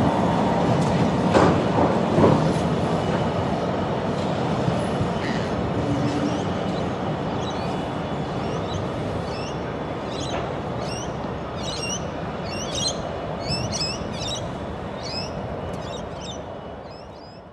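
Container freight train behind a 6000 class diesel locomotive rolling past with a steady rumble and a few sharp wheel clicks early on, the noise slowly fading as it moves away. From about nine seconds in, a small bird chirps over and over, short quick falling notes.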